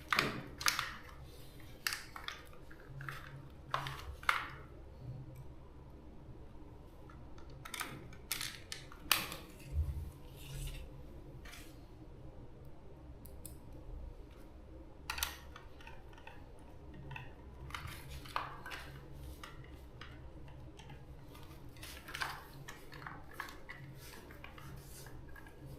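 Irregular clicks, snips and scrapes of small hand tools and parts being handled in a repair, over a faint low steady hum.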